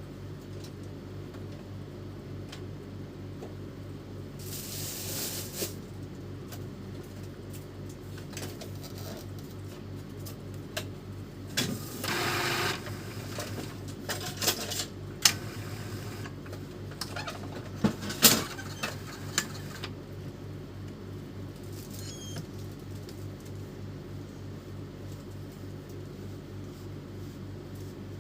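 Epson L310 inkjet printer running a test cycle: a steady motor hum, whirring bursts about 5 and 12 seconds in, then a run of sharp mechanical clacks. The print head acts up again at the end of its travel, which the technician puts down to a worn carriage motor.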